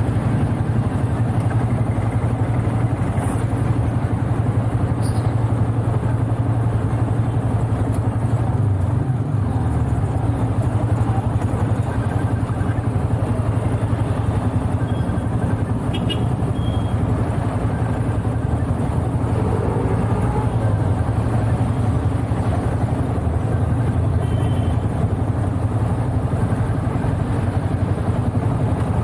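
Motorcycle riding at a steady speed: a steady low engine hum under wind and road noise, picked up by an action camera's microphone with wind-noise reduction on. A few faint clicks come through.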